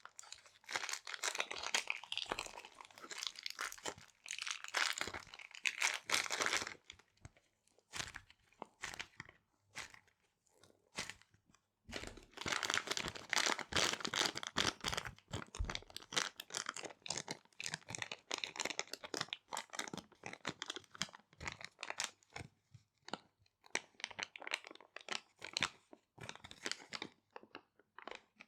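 Small resealable plastic bags being crinkled and handled close up. Two dense stretches of crackling alternate with quieter spells of scattered separate crackles and clicks.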